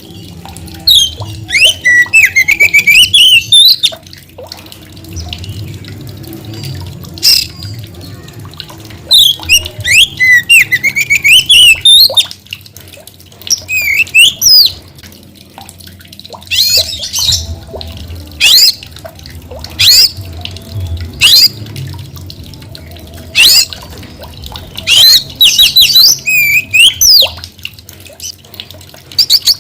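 Oriental magpie-robin (kacer) singing vigorously in repeated bursts of fast, varied whistles and harsh notes, with short pauses between phrases, over a low steady hum.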